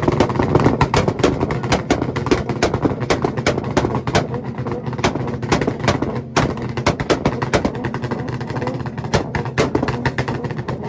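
Car engine held on a two-step launch-control rev limiter, its exhaust firing rapid, irregular pops and bangs over a steady engine drone.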